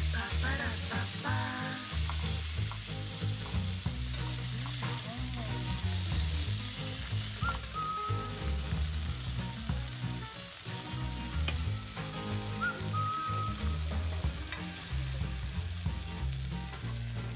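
Boiled edamame pods frying in hot oil with garlic and chili in a frying pan, a steady sizzle as they are stirred with chopsticks.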